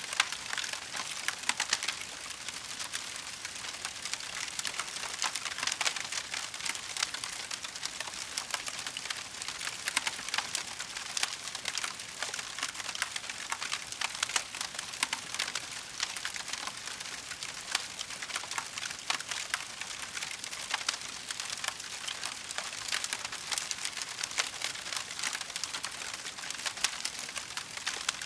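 Wood fire burning in a fireplace, crackling steadily with many small sharp pops and snaps.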